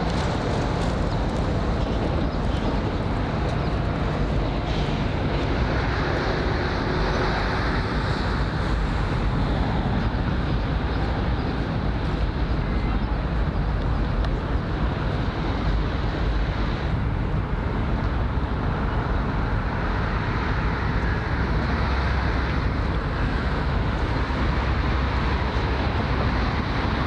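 Steady outdoor background rumble with a strong low end and no distinct events.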